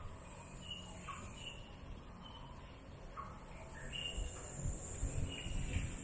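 Wild birds calling outdoors: short chirps and brief downward-sliding notes scattered a few times a second, over a steady high hiss, with low rumbling that picks up toward the end.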